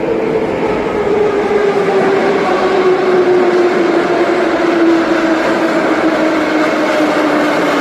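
Moscow metro train running through the station, with its traction motors whining and the whine falling steadily in pitch as the train slows, over the rush of wheels on track.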